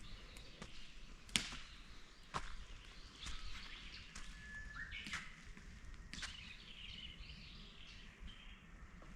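A few sharp knocks at irregular intervals, about a second or more apart, over small birds calling faintly, with one short steady whistled note near the middle.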